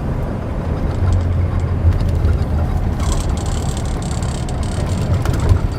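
Steady low drone of a semi-truck's diesel engine and road noise, heard inside the cab. About three seconds in there is a stretch of higher hiss.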